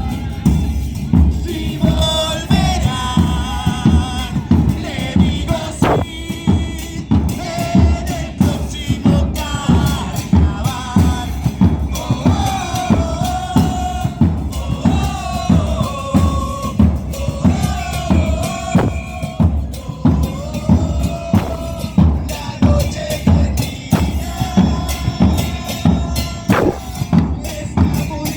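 Carnival parade percussion band playing a steady, driving beat on bass drums and snares, with voices singing along over the drumming.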